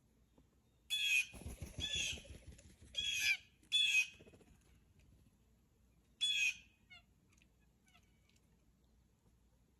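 Blue jay giving harsh jeer calls: four about a second apart, then one more a couple of seconds later, with a low fluttering rumble under the first two.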